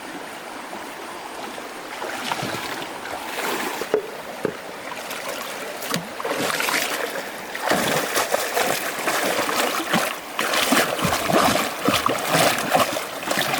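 Water splashing and sloshing in irregular bursts, as when someone wades and works by hand in shallow water; it gets busier and louder about halfway through.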